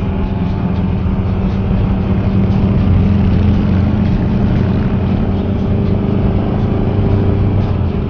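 Can-Am Spyder three-wheeled motorcycle's engine running steadily while riding at low speed, a constant low hum with no change in pitch.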